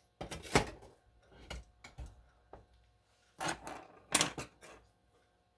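Handling noise of hand tools on a workbench: a series of separate knocks and clatters, the loudest about half a second in and two more clusters past the middle.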